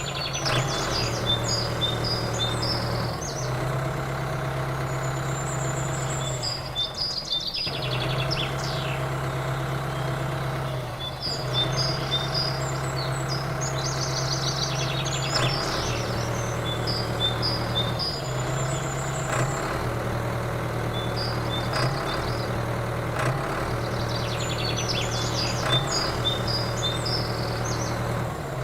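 Small diesel engine running steadily while driving a water pump, its level and tone shifting abruptly every few seconds. High bird chirps sound over it throughout.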